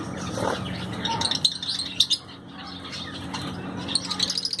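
Caged budgies and lovebirds chirping and chattering in short high bursts, with a quick run of chirps near the end. A sharp click sounds about two seconds in.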